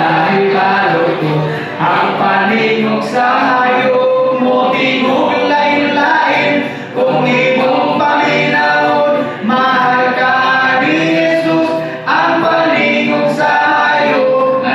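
A group of voices singing a cappella in harmony.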